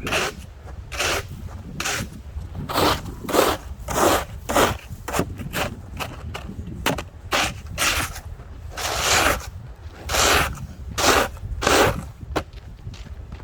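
Snow and ice being scraped off the ground in repeated strokes, roughly one every half second to a second, to clear an icy path.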